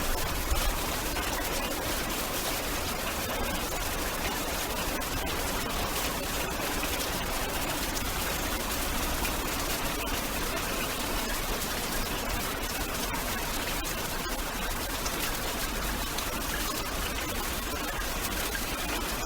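Steady heavy rain, an even hiss of falling water with fine patter throughout.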